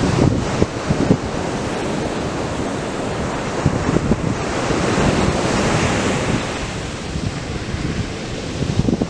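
Atlantic surf breaking and washing up the beach, a steady rush of waves that swells about halfway through, with wind buffeting the microphone in low thumps near the start and the end.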